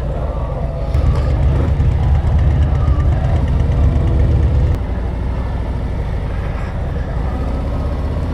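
Harley-Davidson Road Glide V-twin engine running at freeway speed with wind rush. The low rumble grows louder about a second in and eases back a little past halfway.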